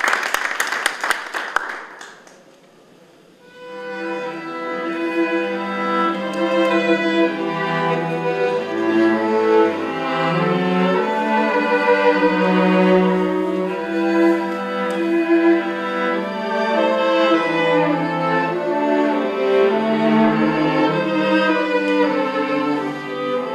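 Clapping dies away in the first two seconds, and after a short pause slow music on bowed string instruments begins, held notes moving in a low and a higher line.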